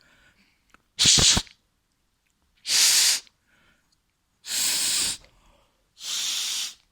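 Four puffs of breath blown hard into a DJ mixer's crossfader slot to blow dust out. They come about every one and a half seconds, the first short and sharp with a low rumble, the later ones longer.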